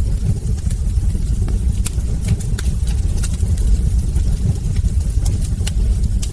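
Wood fire burning in a fireplace: a steady low rumble with frequent small, sharp crackles and pops from the burning logs.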